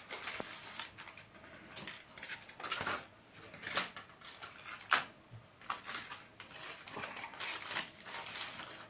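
Irregular crinkling, rustling and light knocks from handling a roasting pan of goose and potatoes as it is covered with aluminium foil.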